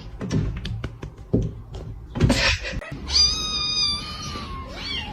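Cat meowing: a high, drawn-out call about three seconds in and a shorter one near the end, after a run of light clicks and taps.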